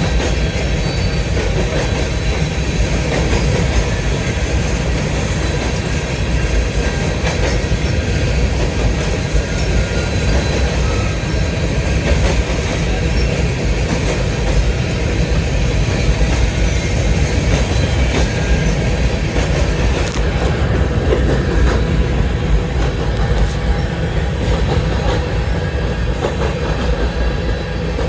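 Freight train of grain hopper cars rolling past: a steady, loud rumble of steel wheels on rail, with faint clicks and a thin wheel squeal running through it.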